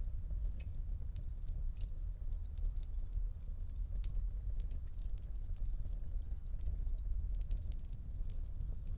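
Fire burning in a fireplace: many small, sharp, irregular crackles and pops over a steady low rumble of the flames.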